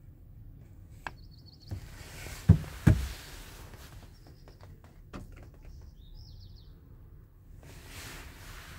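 Birds chirping in short, quick trills of high notes, three times. Two loud knocks come close together about two and a half seconds in.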